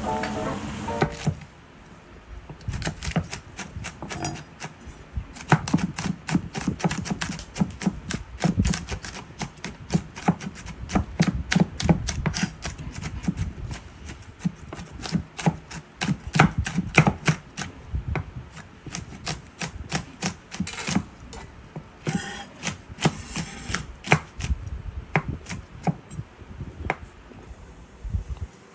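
Kitchen knife chopping on a cutting board: a long run of quick, uneven knocks, several a second, after a short snatch of background music fades out about a second in.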